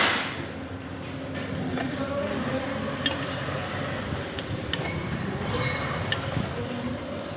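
Light metallic clinks of hand tools and engine parts being handled, a couple of sharp ticks among them, over steady workshop background noise with faint voices.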